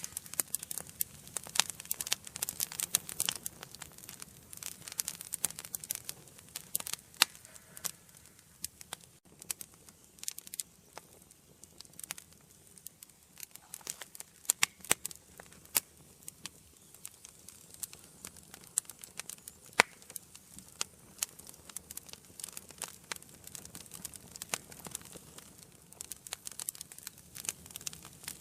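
Wood fire burning in an indoor fireplace, crackling and popping in irregular sharp snaps over a low steady hiss, busiest in the first few seconds.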